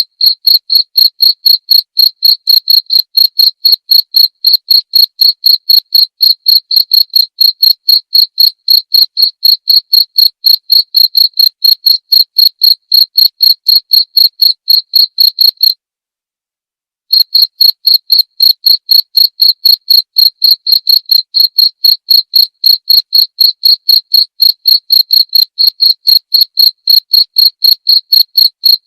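A cricket chirping in a steady, even rhythm of about three to four high chirps a second; the chirping breaks off for about a second midway and then resumes.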